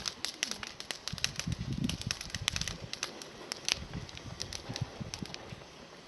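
Small campfire of climbing-rose twigs crackling, with irregular sharp snaps and pops.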